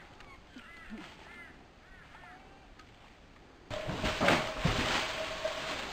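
Birds calling faintly, a string of short repeated calls. About two-thirds of the way in, the sound switches abruptly to a much louder noisy background with a steady hum.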